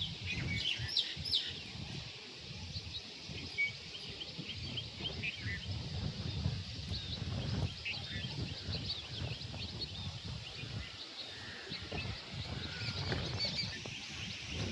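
Morning chorus of small birds chirping, many short high calls overlapping throughout, over a low uneven rumble of background noise.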